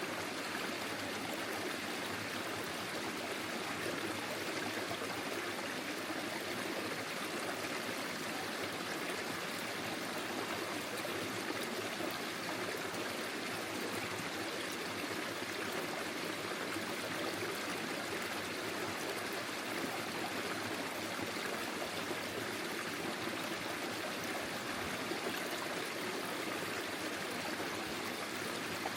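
Forest stream flowing over stones: a steady, unbroken rush of running water with light trickling.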